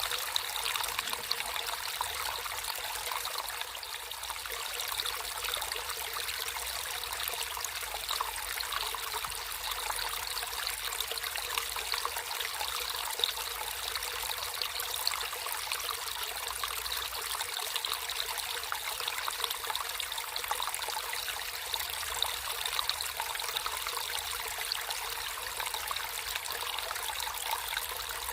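Water flowing and trickling over stones in a small natural stream, a steady splashing babble with no pauses.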